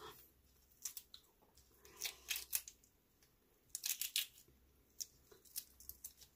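A person chewing and biting grilled octopus and shrimp: irregular wet clicks and crunches that come in clusters, the loudest about two and four seconds in.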